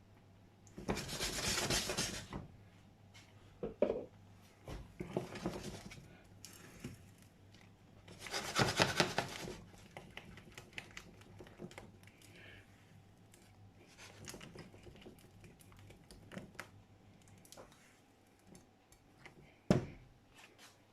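A utensil scraping and stirring around a saucepan of thick béchamel sauce as it cooks out. There are two longer bouts of scraping, about a second in and about eight seconds in, with shorter scrapes and light knocks between them.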